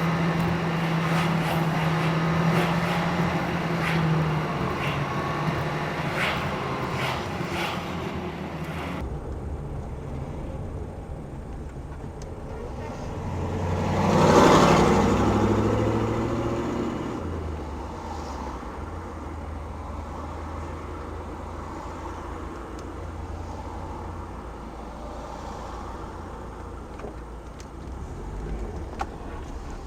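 A road vehicle passing by: its noise swells to a peak about halfway through and fades away, over a steady low rumble. Before that, a busier stretch of clicks and a steady hum cuts off abruptly.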